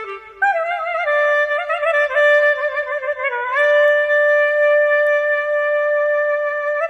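Solo clarinet playing a slow melody: a short pause, then notes decorated with quick wavering trills, settling into a long steady held note from about halfway, with a step up in pitch at the very end.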